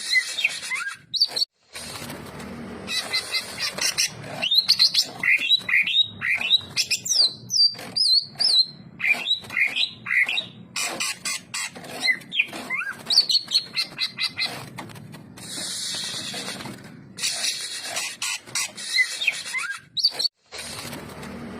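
Green leafbird (cucak ijo) singing continuously: fast, varied whistled phrases of quick rising and falling notes, mixed with harsh raspy notes. It breaks off briefly twice.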